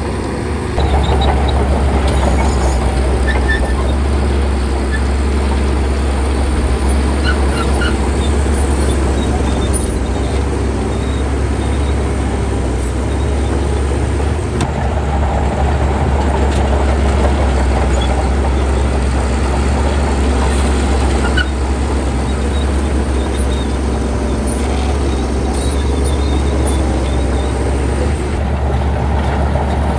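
Shantui crawler bulldozer at work, its diesel engine running loudly and steadily with a constant deep drone, getting louder about a second in.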